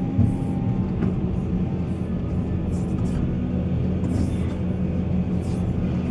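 Heavy diesel earthmoving machinery running steadily with a deep, even engine drone, with short bursts of hiss every second or so.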